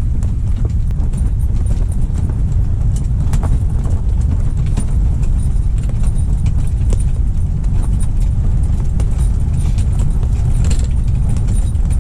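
Strong 25–30 mph wind buffeting the microphone: a loud, steady low rumble, with scattered light ticks and taps over it.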